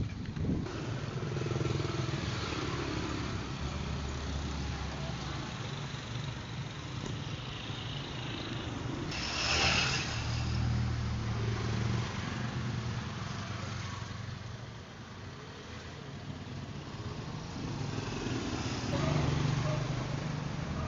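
A motor vehicle engine running, its pitch shifting up and down, with a loud rush of noise about nine to ten seconds in.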